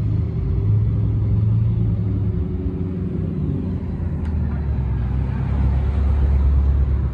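Car engine running with a deep, steady low rumble that grows a little louder near the end.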